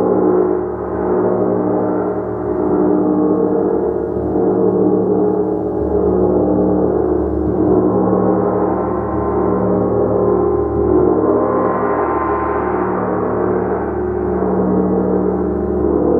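A gong played continuously: a sustained wash of many overlapping ringing tones that swells and eases without any clear single strike, brightening briefly about twelve seconds in.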